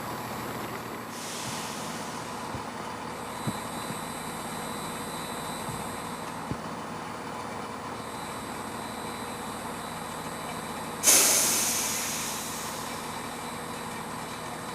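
Steady railway-station background under a constant high-pitched electrical buzz from a faulty microphone. About eleven seconds in comes a sudden loud hiss of released air, like a train's air brakes, which fades out over about a second and a half.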